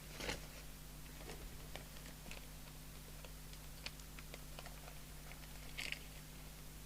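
Light clicks and rustles of small parts being handled and sorted by hand while picking through spare resistors, with a louder rustle near the start and again near the end, over a steady low electrical hum.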